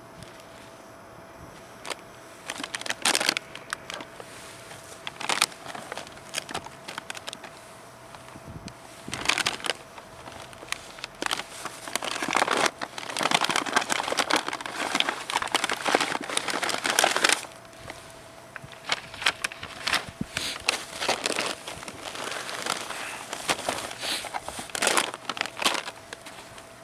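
Irregular bouts of rustling and crinkling, like plastic or packaging being handled, busiest in the middle. A faint steady tone runs underneath.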